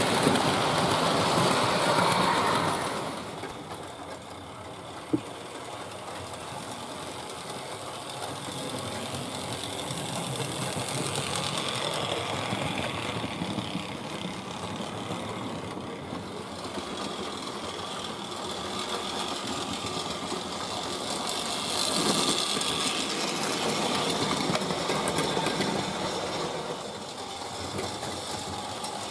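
Hornby Dublo 3-rail model tank engine running on its track: a steady whir of the small electric motor and clatter of wheels on rail, louder for the first few seconds and again a little past the middle as it passes close. One sharp click about five seconds in.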